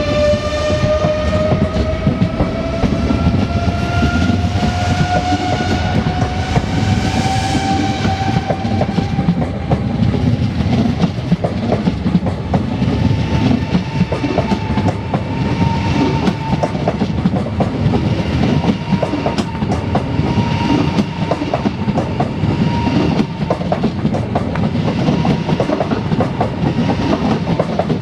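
Eurostar e320 (Siemens Velaro) electric high-speed train pulling away: its electric traction drive whines with a pitch that rises slowly as it picks up speed for about the first ten seconds, then holds steady. Under it the wheels rumble and clatter over rail joints and points.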